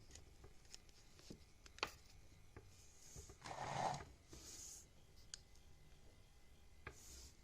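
Faint scattered clicks and rustles of a diecast car's plastic blister-card packaging being handled and opened, with a louder rustle about three and a half seconds in.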